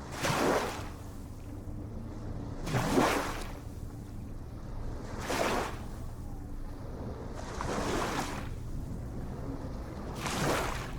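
Ocean waves washing in, a surge of surf about every two and a half seconds (five in all), over a steady low rumble.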